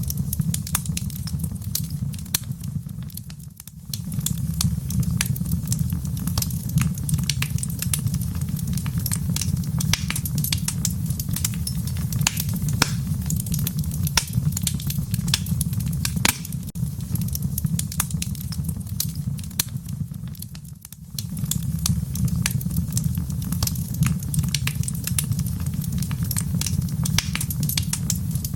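Wood fire in a fireplace crackling and popping, with many sharp snaps over a steady low rumble. The sound dips briefly twice, a few seconds in and about two-thirds of the way through.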